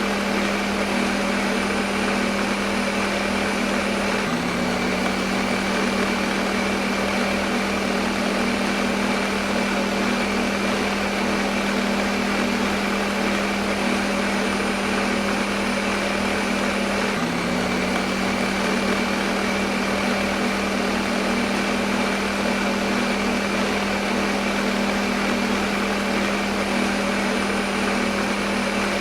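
Electric kitchen blender motor running continuously at one steady speed, a loud whirring hum with a constant low drone. The hum gives a slight hitch about four seconds in and again about seventeen seconds in, then carries on unchanged.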